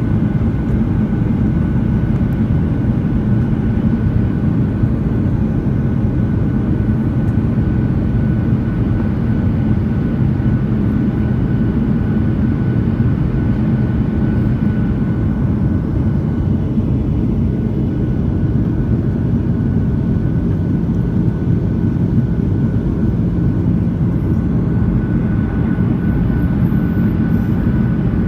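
Steady, even roar of an aircraft heard from inside the passenger cabin: engine and airflow noise, deep-weighted, with a faint steady high hum.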